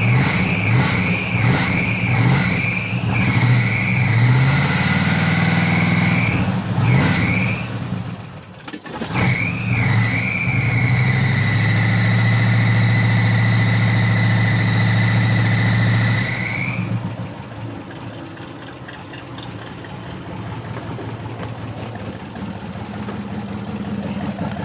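1978 Chevy K20's 400 small-block V8 being revved with a high squeal that rises and falls with the revs, typical of the alternator belt that the owner says needs tightening. The revs dip briefly about eight seconds in, are held up for several seconds with a steady squeal, then drop with the squeal to a quieter idle.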